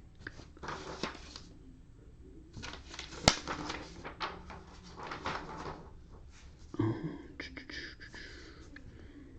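Close-up handling noises on a desk: irregular rustling and scraping in several short spells, with scattered sharp clicks, the loudest about three seconds in.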